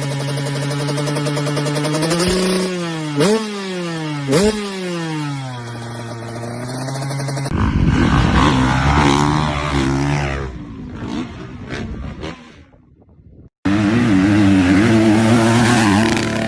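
Off-road motorcycle engines revving in a run of edited clips: a steady engine note rises, is blipped sharply twice and then falls away. About halfway through it cuts to a rougher, busier engine sound, and near the end, after a brief dropout, to another engine running.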